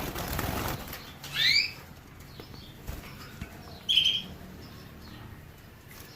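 A small finch fluttering its wings at the start, then giving a short rising chirp about a second and a half in and a brief higher chirp about four seconds in.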